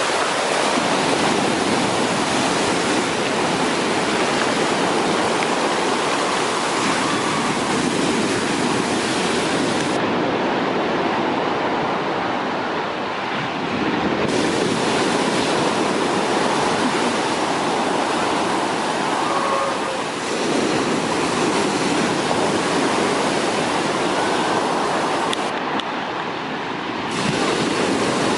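Heavy sea surf: big waves breaking and washing up a beach in a continuous rush of water noise that swells and eases briefly about three times.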